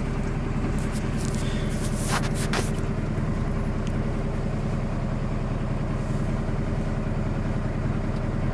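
Truck engine running at a steady, even pitch, heard from inside the cab, with no revving. Two short sharp clicks sound about two seconds in.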